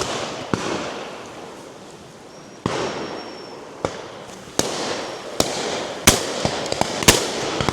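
Shotguns firing at birds overhead from several guns along the line: about nine shots at irregular intervals. Some are close and sharp, others fainter and further off, each with an echoing tail.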